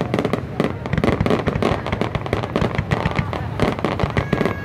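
Aerial fireworks display with dense, rapid bangs and crackling, one burst after another without a pause. A thin, high whistle comes in near the end.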